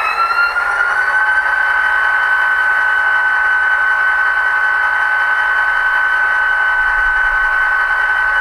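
HO-scale SD40-3 model's LokSound decoder playing the EMD diesel prime mover through its small onboard speaker. The pitch rises over about the first second as the engine notches up, then holds steady at a high throttle setting.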